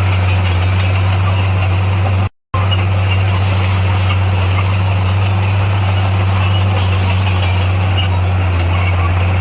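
Heavy construction-machine diesel engine running steadily at a constant low pitch. The sound drops out completely for a moment about two seconds in.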